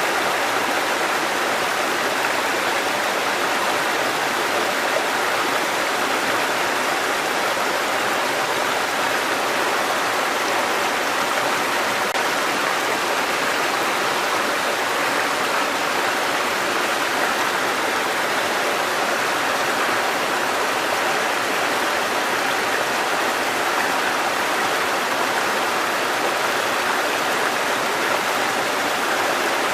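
Water cascading over rocks in a stream, a steady rushing splash with no breaks.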